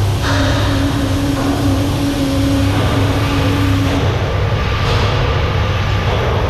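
Ship's engine room machinery running: a loud, steady low drone, with a steady higher hum that drops out about four seconds in.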